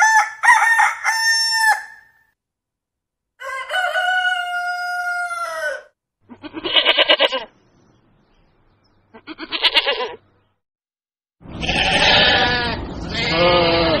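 A rooster crows twice. Then sheep bleat: two short, wavering bleats, followed near the end by two louder, longer ones.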